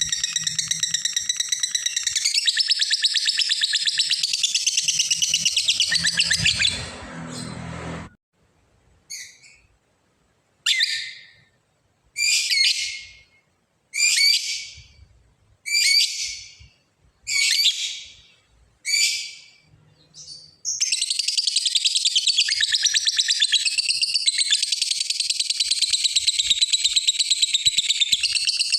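Lovebird ngekek: a long, rapid, high-pitched chattering trill. It breaks off about seven seconds in into a run of about eight short separate calls, and resumes as a continuous trill near the end.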